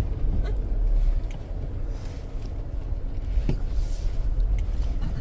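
2024 Jeep Wrangler's 2.0-litre four-cylinder engine and drivetrain running low and steady under light throttle, heard from inside the cabin, with a few faint knocks from the body going over bumps.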